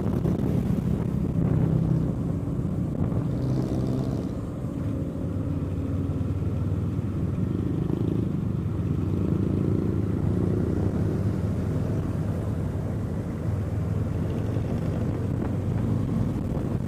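Kawasaki Eliminator SE parallel-twin engine running under way during a ride, its pitch shifting up and down a few times as the throttle changes.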